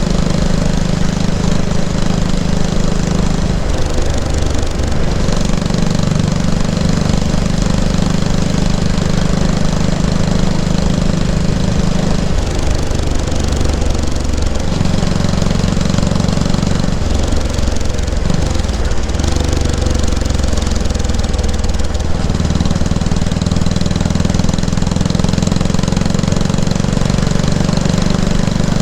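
Yamaha SR500 single-cylinder four-stroke exhaust note while riding, the engine note dropping and rising again several times as engine speed changes.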